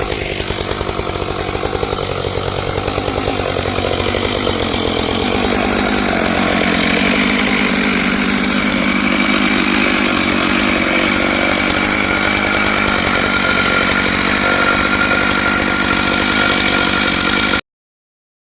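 Stihl MS661 two-stroke chainsaw with a ripping chain running steadily under load, ripping lengthwise through a pine log in a chainsaw mill. The sound cuts off abruptly near the end.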